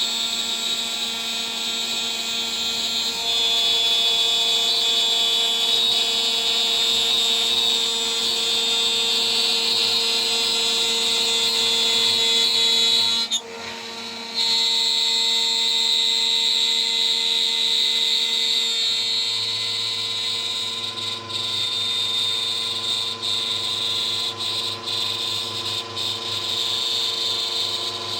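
DIY CNC router's spindle running at high speed with a 3 mm three-flute end mill cutting a part, a steady high-pitched whine made of several tones. The sound drops briefly for about a second roughly halfway through, then comes back.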